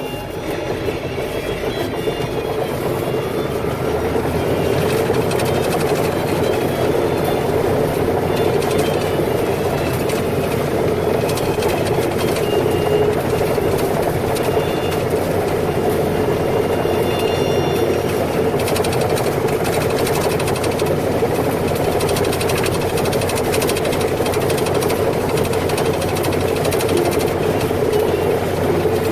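Heavy machinery engine running steadily, growing louder over the first few seconds and then holding an even level.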